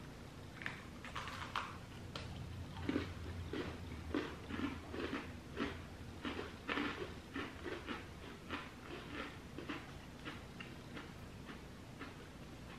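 Chewing of crunchy chocolate sandwich cookies: a run of small crunches, about two a second, that dies away near the end.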